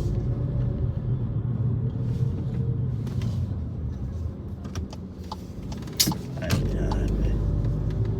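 Car engine and road noise inside the cabin while driving: a steady low hum, with a sharp click about six seconds in and a deeper rumble after it.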